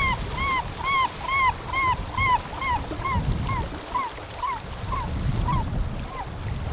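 A bird calling a long series of clear, arching notes, about two a second, which grow shorter and fainter and stop shortly before the end. A low steady rumble runs underneath.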